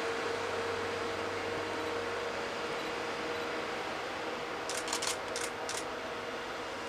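Steady mechanical hum of a train being shunted, with a constant mid-pitched tone, and four sharp clicks in quick succession about five seconds in.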